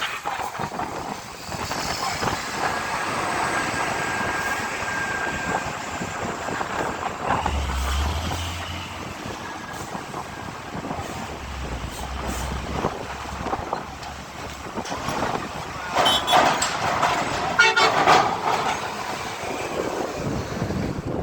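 Heavy trucks moving and running in a queue, with horns tooting at times.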